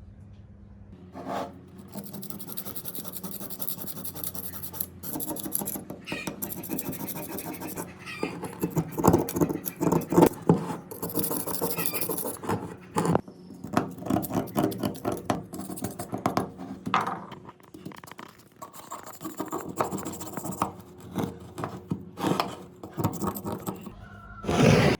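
Irregular scraping and scratching strokes from hand work on an old hammer being restored, with one louder stroke near the end.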